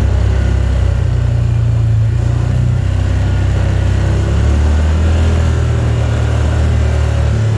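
Car engine and road noise heard from inside the cabin while driving: a steady low drone that shifts in pitch a few times.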